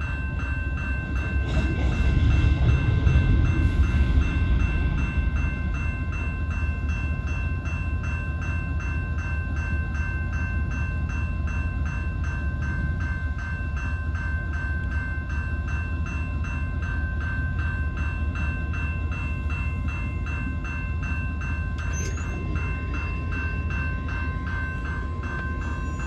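Freight train rumbling steadily on the rails, louder a few seconds in. Over it, a level-crossing warning bell rings in a fast, even repeat.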